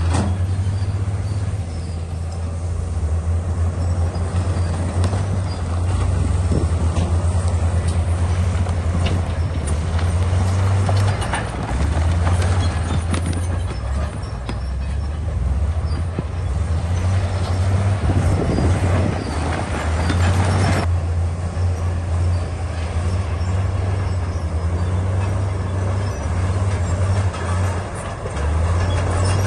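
A Komatsu D68E bulldozer's diesel engine running steadily under load as the dozer pushes rock, with scattered knocks. A little past the middle comes a louder rush of noise that cuts off suddenly.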